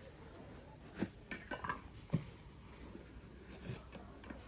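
A few faint, short knocks and clinks, spaced irregularly, over a low steady background hum.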